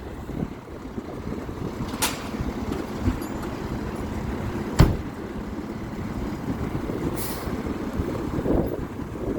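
Fire engine's diesel running low and steady while backing, with sharp clicks about two and five seconds in and a short hiss of air near seven seconds in.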